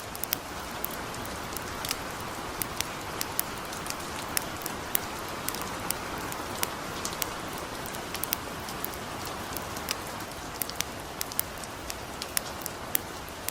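Steady light rain falling, with scattered sharp crackles and pops from a wood campfire, several each second.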